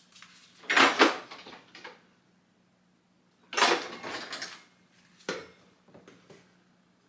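A measuring cup scraping and knocking against a flour container and mixing bowl as bread flour is scooped and levelled, in four short clattering bursts.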